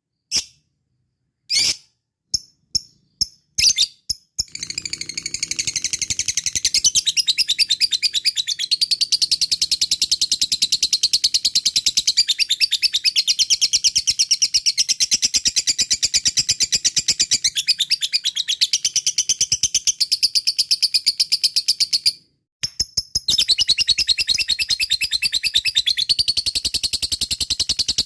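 Lovebird calling: a few single sharp chirps, then a long, very rapid, high-pitched chattering trill (the 'ngekek panjang' song) that breaks off briefly near the end and starts again.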